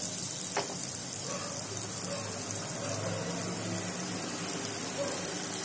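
Jalebi batter frying in hot ghee in a shallow pan: a steady sizzle with fine crackling from the bubbling fat.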